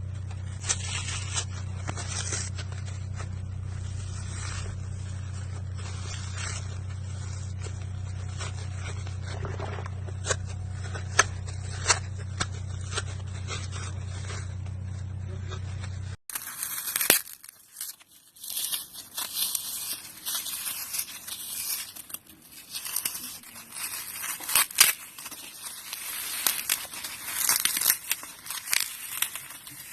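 Dry floral foam being crushed, crunching and crackling in irregular bursts. In the first half a steady low hum runs under sparse crackles; after a cut about halfway through, the crunching is louder and denser.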